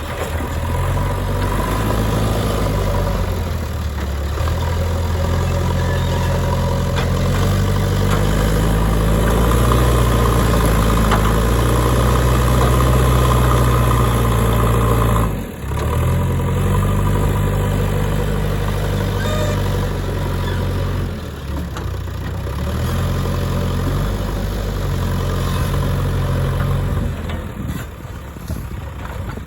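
JCB 3DX backhoe loader's diesel engine running and revving up and down as its hydraulics dig and load mud, the pitch stepping higher under load. Loudest in the middle, with a brief sharp drop about halfway through before it picks up again, easing toward the end.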